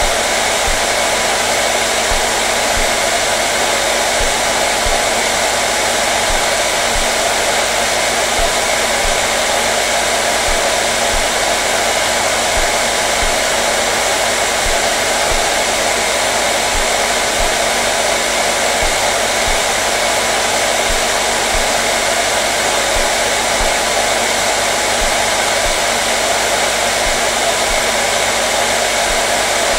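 Hair dryer running continuously at a steady setting, an even blowing noise with a faint steady hum underneath and no change in pitch or level.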